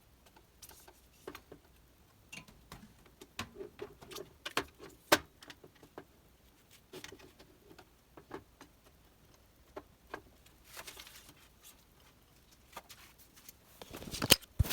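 Scattered clicks, taps and light knocks of printer frame parts being handled and fitted during hand assembly of a delta 3D printer, irregular and uneven in strength. A brief rustle comes about eleven seconds in and a louder rustle near the end.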